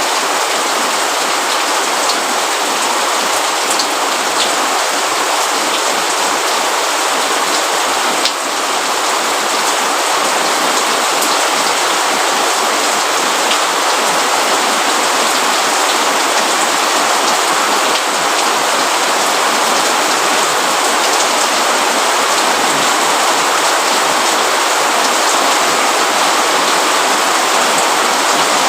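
Steady rain: a dense, even hiss of falling rain with occasional individual drops ticking out of it, one sharper tick about eight seconds in.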